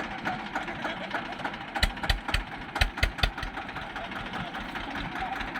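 Diesel tractor engines running steadily while pulling against each other in a tractor tug-of-war, with a run of about six sharp knocks about two to three seconds in.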